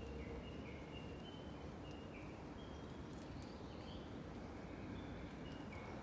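Small birds calling: a steady run of short, high whistled notes, about three a second, stepping up and down in pitch, over a steady low background hum.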